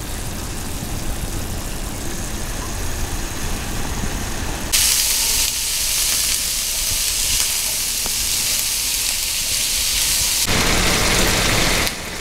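Hissing sizzle of onions and green capsicum stir-fried in a hot pan with a spatula. The sound changes abruptly about five and ten seconds in.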